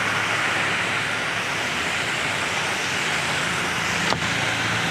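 Heavy rain pouring down in a steady hiss, over the low hum of vehicle engines in stalled traffic. A single sharp click about four seconds in.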